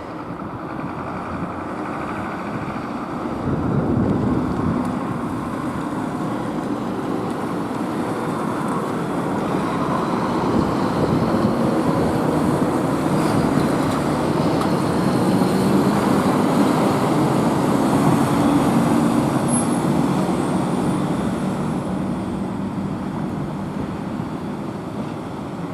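Heavy Scania fire engines driving by, with a steady engine rumble and road noise that swells as the trucks pass and then eases off.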